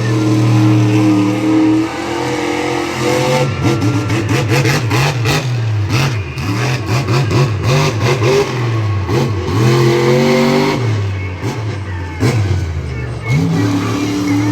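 Monster truck engine revving hard, its pitch climbing and dropping again and again, with a rapid run of knocks and bangs in the middle.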